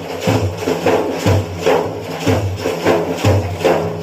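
Frame drums beaten in a steady rhythm with no singing: a deep low stroke about once a second and a lighter, sharper stroke between each.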